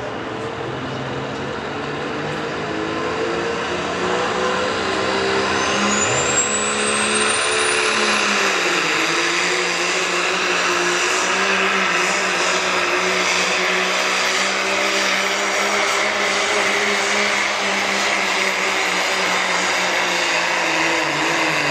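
Turbocharged diesel pickup truck pulling under full throttle. The engine note builds over the first several seconds while a turbo whistle rises steeply in pitch around six seconds in, then holds high above a steady engine drone, the engine's pitch dipping slightly as it settles.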